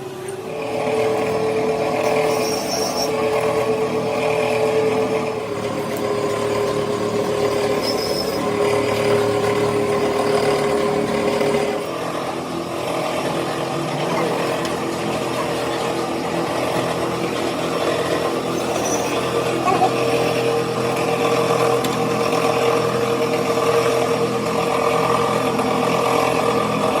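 A motor-driven machine running steadily with a held, humming pitch that shifts slightly about twelve seconds in.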